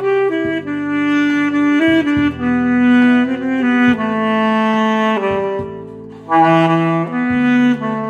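Instrumental music: a saxophone plays a slow, held melody over a backing track with a bass line, pausing briefly about six seconds in before the next phrase.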